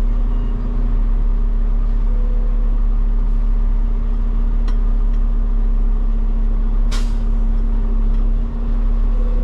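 Peterbilt 589 dump truck's diesel engine idling steadily, with a faint click a little before halfway and a short, sharp air hiss about seven seconds in.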